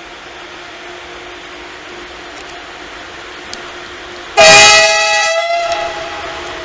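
A train horn sounds one short, very loud blast about four seconds in, then dies away in the station's echo over a steady background hum.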